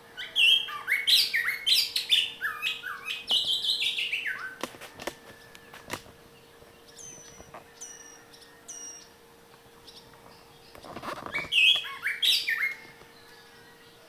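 Loud bird song: a run of short whistled notes stepping down in pitch for about four seconds, a few thin high falling whistles in the middle, then another run of stepping notes near the end.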